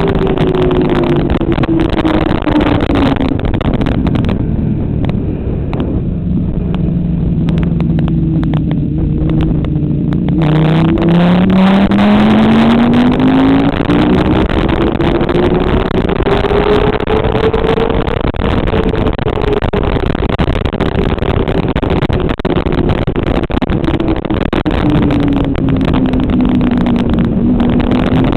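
Motorcycle engine at speed on a racetrack: the revs drop low about four seconds in and stay down for several seconds, climb steadily from about ten seconds, then ease off and start to rise again near the end.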